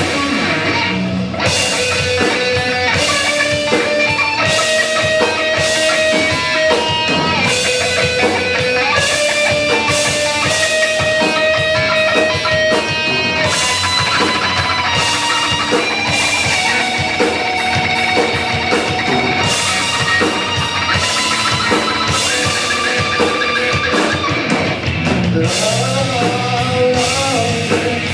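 Live rock band playing an instrumental passage: distorted electric guitar carrying a melody over a steady drum kit beat.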